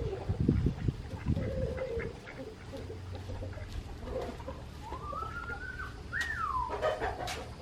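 A rooster crowing once about five seconds in, a drawn-out call that rises and then falls away. Chickens cluck faintly around it, and there are low knocks and rumble in the first second or so.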